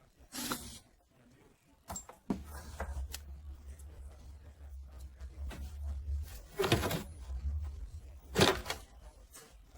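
Scattered knocks and clicks of parts being handled, over a low hum that runs from a couple of seconds in to near the end. Two louder knocks come near the end.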